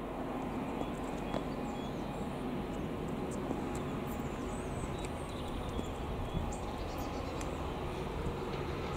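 Outdoor trackside background: a steady low rumble with small birds chirping now and then.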